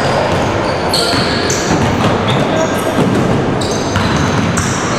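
Ball game in a sports hall: a ball bouncing and high-pitched squeaks over a steady din of voices echoing in the hall.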